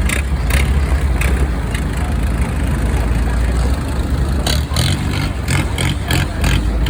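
Speedboat outboard engines running at speed, a deep steady rumble under a rush of wind and water, with a run of short sharp hits about two-thirds of the way in.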